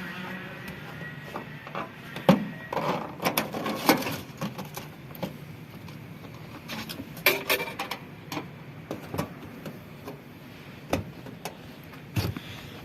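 Irregular clicks and knocks of hand tools and parts on a washing machine as it is taken apart, with a louder knock about two seconds in and clusters around four and seven seconds.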